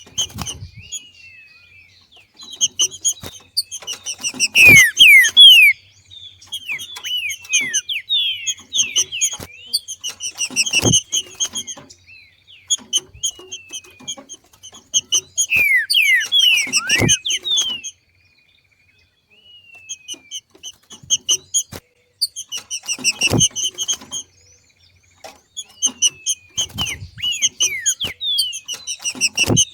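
Trinca-ferro (green-winged saltator) giving its 'macheando' call, the call the channel credits to the female: bouts of rapid, repeated short high notes mixed with louder falling whistled notes. A sharp click comes with the loudest bouts, about every six seconds.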